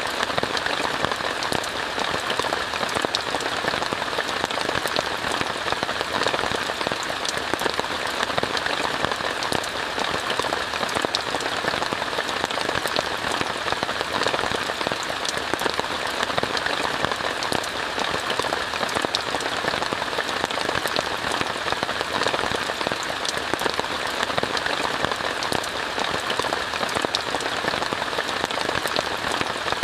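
Steady rain falling on a tent, heard from inside, with a dense scatter of individual drop ticks over an even hiss.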